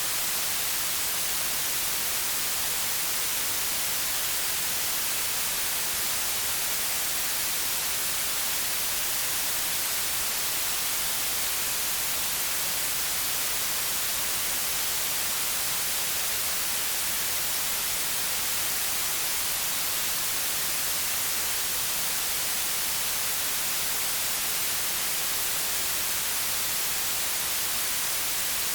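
Steady white noise: an even, unchanging hiss, brightest in the treble, with no variation.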